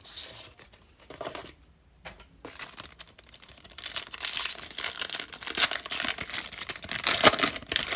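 Foil wrapper of a Topps Fire baseball card pack being torn open and crinkled: a few soft rustles, then a dense crackling run from about two and a half seconds in.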